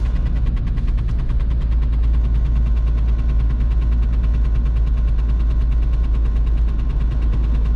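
VW Golf 3's 1.9 TDI diesel engine at full throttle with road noise, a steady low drone heard from inside the cabin, over a rapid, even clicking like a card in a bicycle wheel's spokes: the rear handbrake cable rubbing against the rear tyre.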